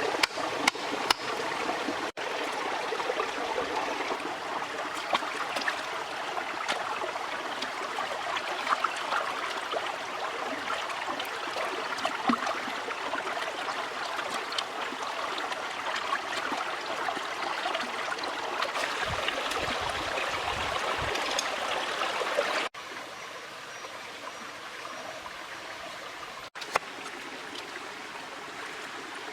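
Stream water running steadily, with scattered small clicks over it. The sound drops to a quieter level about 23 seconds in.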